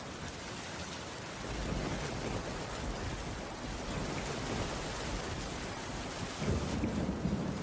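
Steady rain pattering on a wooden cabin roof, with low thunder rumbling underneath that swells about a second and a half in and again near the end.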